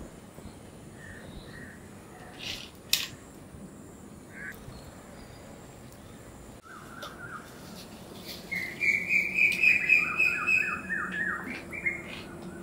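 Birds chirping: a few scattered chirps, then from about halfway a run of quick repeated high notes that is loudest in the last few seconds. A single sharp click sounds about three seconds in.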